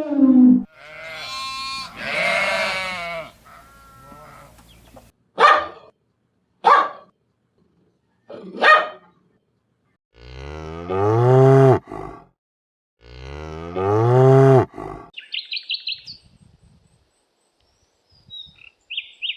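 A run of separate farm-animal calls: a long bleating call, then three short calls, then two long, low moos from cattle about ten and thirteen seconds in. Brief high bird chirps follow near the end.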